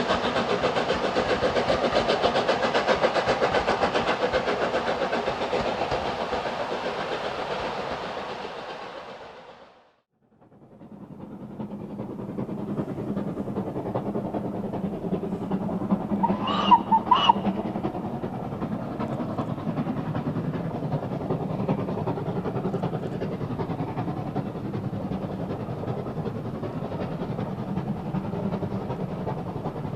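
Steam locomotive working a train, fading out to silence about a third of the way through. A second steam-hauled train then fades in, and about halfway its whistle gives two short blasts.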